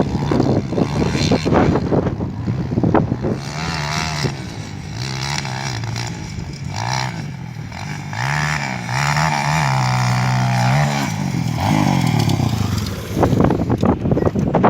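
Motocross motorcycle engine revving, its pitch rising and falling again and again as the throttle is opened and closed.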